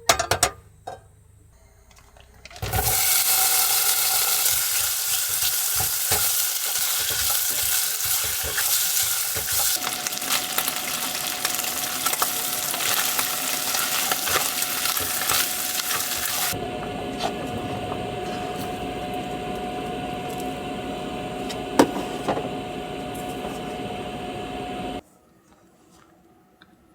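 Pawpaw being cooked down into jam in a pan, sizzling and bubbling with some stirring. The sizzle starts suddenly about three seconds in, shifts in character twice, and cuts off suddenly near the end.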